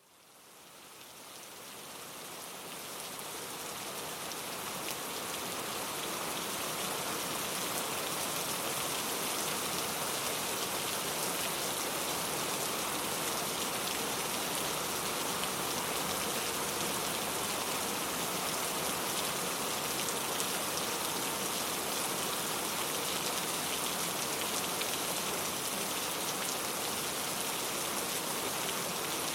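Steady rain falling, a dense even hiss of rainfall that fades in over the first several seconds and then holds constant.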